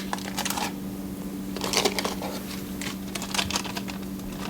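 Whole cinnamon sticks crackling in hot oil in a pressure cooker, in short irregular bursts, over a steady low hum.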